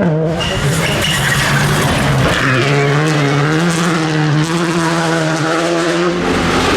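Rally car engine at full attack on a gravel stage, its pitch climbing and dropping repeatedly as it revs and changes gear, over a constant rush of tyre and gravel noise.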